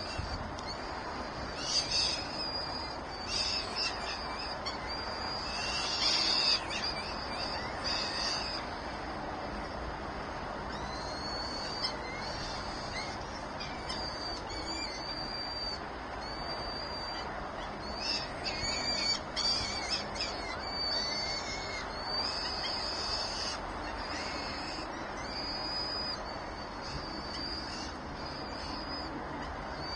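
Birds calling in short bouts of high, thin chirps and whistles, over steady background noise.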